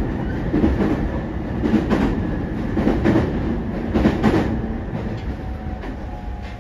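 Running sound inside a JR East E231 series 0 commuter train: a steady low rumble with the wheels clicking over rail joints several times. It grows gradually quieter toward the end as the train slows for its next stop.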